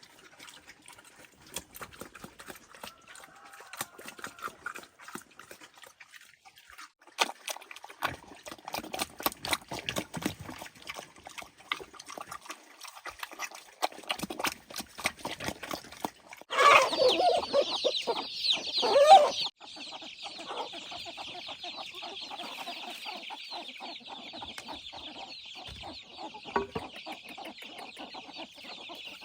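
Chickens clucking, with a loud burst of sound for a few seconds past the middle, followed by a steady high-pitched hiss.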